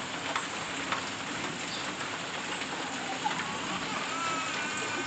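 Rain falling steadily on surfaces, with separate drops ticking sharply now and then. A faint wavering tone joins in near the end.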